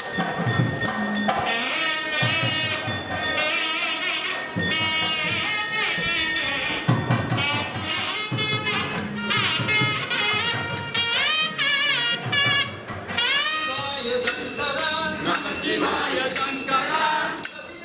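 Temple festival music: a wind instrument plays an ornamented melody that glides and bends, over steady drum strokes and jingling percussion.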